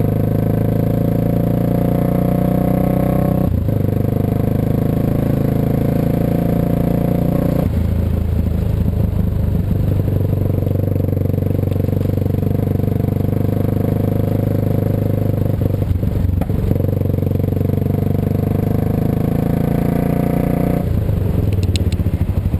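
Suzuki DR650's single-cylinder four-stroke engine running under way, holding a steady pitch that steps to a new level a few times as engine speed changes.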